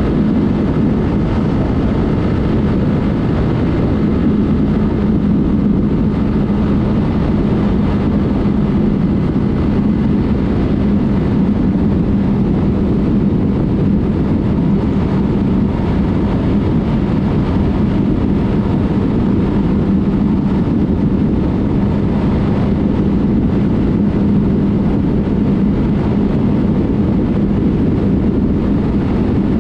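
Yamaha MT-03 with a Mivv exhaust ridden at a steady cruise, its engine holding a constant note under heavy wind and road noise on the helmet-mounted camera.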